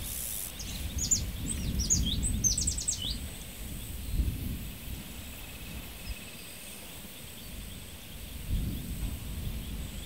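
Countryside ambience: a small bird gives a quick series of short, high chirps in the first three seconds, over a low rumble of wind buffeting the microphone that rises and falls.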